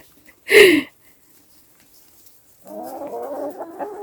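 A dog whimpering: a short sharp cry falling in pitch about half a second in, then from about two and a half seconds in a long wavering whine.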